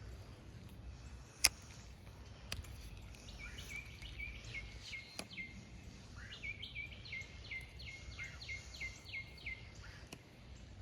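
A songbird singing two runs of quick, evenly repeated down-slurred chirps, about four a second. A single sharp click about a second and a half in is the loudest sound.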